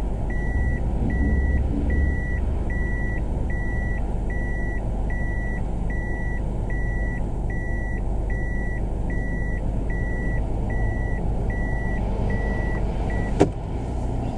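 Toyota Roomy's 1.0-litre three-cylinder engine running steadily, with a car's electronic warning buzzer beeping evenly about twice a second. The beeping stops near the end, followed by one sharp click.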